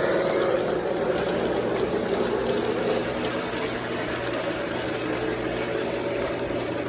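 Lionel O gauge Camelback steam locomotive model running on three-rail track, with a steady motor hum and wheel rumble that slowly fades.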